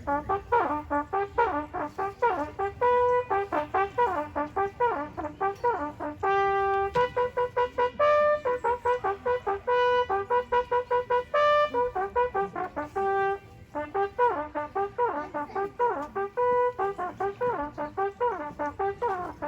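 A solo trumpet playing a fast tune of many short notes, with a few longer held notes along the way.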